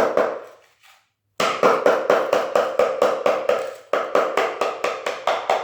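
Hammer tapping quickly on an old chisel, about five or six light ringing strikes a second, driving the blade under a stuck-down floor tile to lift it. The tapping starts about a second and a half in, with a brief break near four seconds.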